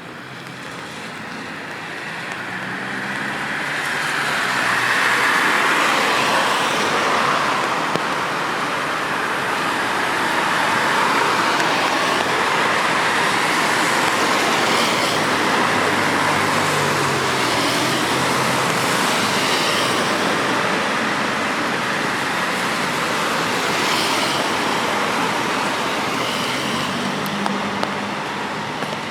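Road traffic on a rain-wet street: the hiss of tyres on wet asphalt with low engine hum, building over the first few seconds and then staying loud and steady.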